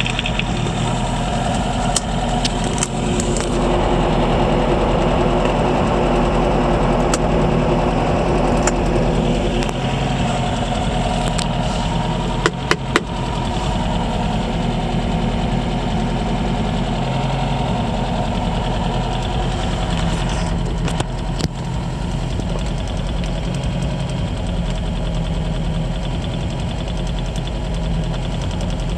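1979 MGB Roadster's 1.8-litre four-cylinder engine idling steadily while warming up after a cold start, with a few sharp clicks about halfway through.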